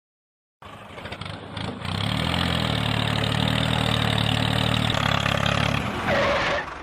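An engine starting up and building to a steady run, with a low pitched hum and a rough rattle, then a brief higher-pitched burst near the end before it cuts off.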